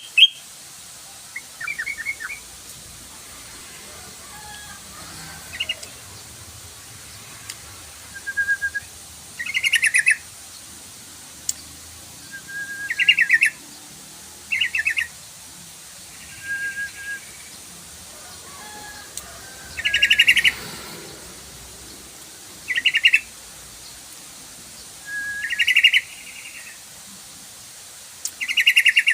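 Yellow-vented bulbul song: short bubbly chattering phrases repeated every few seconds, some opened by a brief lower whistled note.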